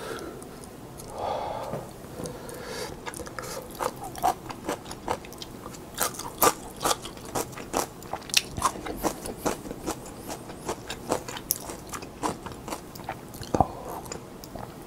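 Close-miked chewing of a mouthful of instant fried noodles, with sharp wet mouth clicks and smacks coming two or three a second.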